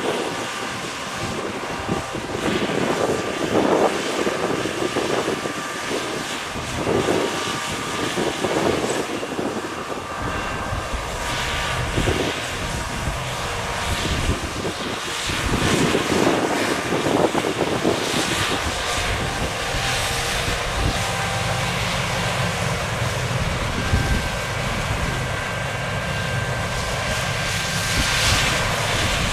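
Fendt 6275 L combine harvester running steadily while harvesting, its engine and threshing machinery giving a continuous drone with a low hum and a higher steady whine.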